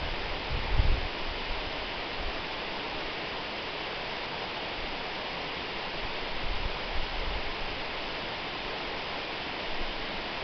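A waterfall: a steady, even rush of falling water. Brief low rumbles come about a second in and again around six to seven seconds.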